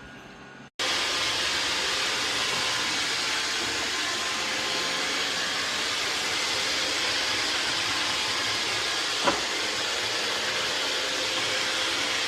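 Robot vacuum running, a loud, steady airy hiss with a faint hum, switching in abruptly about a second in; a single sharp click about nine seconds in.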